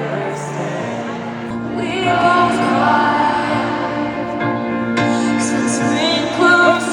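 Live concert music with a singer's voice over sustained accompaniment, picked up from within a stadium audience.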